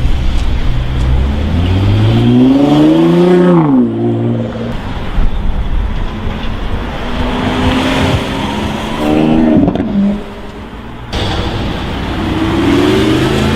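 Sports car engine accelerating hard, its pitch climbing for about two seconds and then dropping sharply. It revs up and drops again a few seconds later and starts climbing once more near the end, over a steady hiss of road noise.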